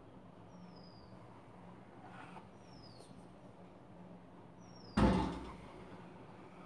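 A bird repeats a short, high, falling whistle about every two seconds, three times. About five seconds in there is a single loud thump that dies away over about a second.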